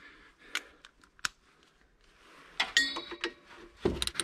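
Metal hand tools clinking: a few light clicks, then about two and a half seconds in a cluster of sharper metal clinks with one brief ringing note, as a 17 mm wrench or socket is taken up.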